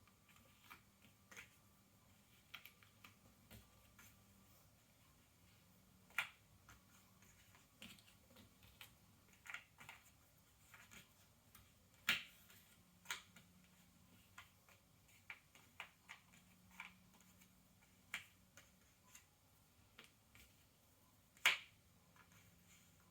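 Cardboard jigsaw puzzle pieces being handled on a table: irregular light clicks and taps, with a few louder taps about six seconds in, about twelve seconds in and near the end.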